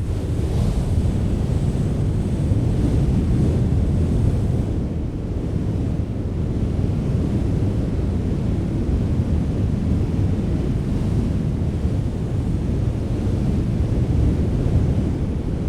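Strong wind blowing in steady low gusts, buffeting the microphone with a deep rumble.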